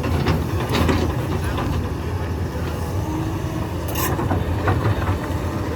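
Heavy diesel excavator engine running steadily under load, with scattered sharp knocks and scrapes of rock being dug and loaded, the loudest about four seconds in.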